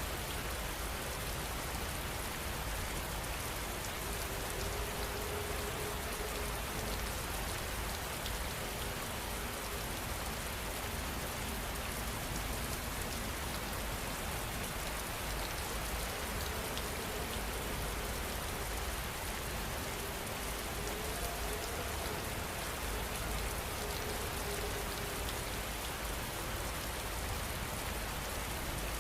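Steady rain falling on surfaces, an even hiss that holds the same level throughout. A faint low tone comes and goes in the background several times.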